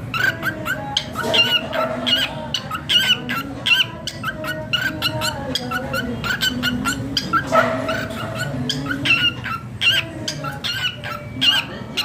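Cockatiel chirping, a quick string of short, high calls several times a second without pause.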